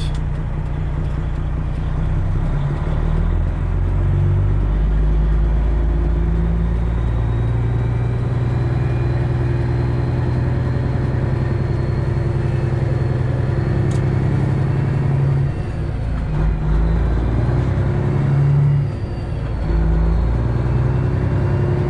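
Semi truck's diesel engine running at low speed, its pitch shifting up and down several times.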